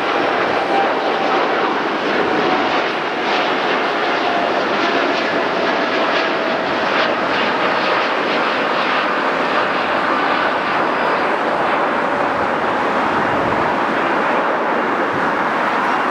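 Steady loud engine noise of a jet airliner passing, with faint tones that slowly fall in pitch.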